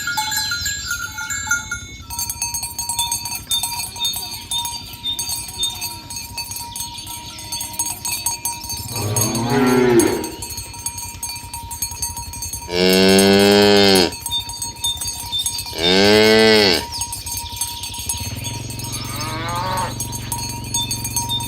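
Cattle mooing: several long moos, a softer one before the middle, two loud ones just past the middle, and further softer ones toward the end.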